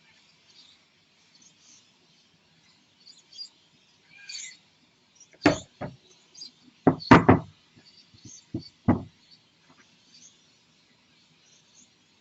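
A cluster of sharp knocks and taps in the middle, the loudest about seven seconds in, over faint high chirping in the background.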